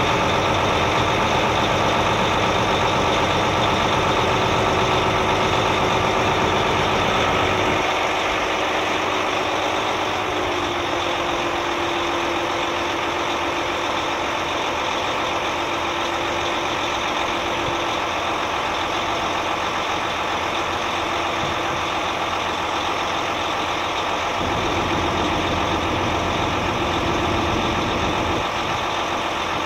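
Heavy truck's diesel engine idling steadily. Its deep low rumble fades about eight seconds in and comes back for a few seconds near the end.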